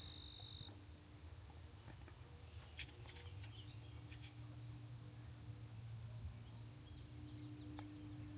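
Faint outdoor ambience of insects singing: a steady, unbroken high-pitched note, with a second high note that stops under a second in, over a low hum and a few faint ticks.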